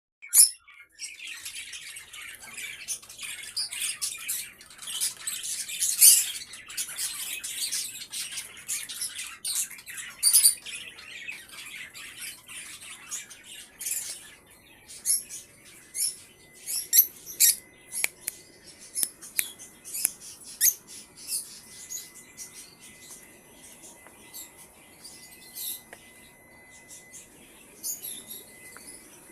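Many birds calling in short, high chirps, thick and overlapping at first and thinning out after about fifteen seconds; a faint steady high tone sounds from about halfway on.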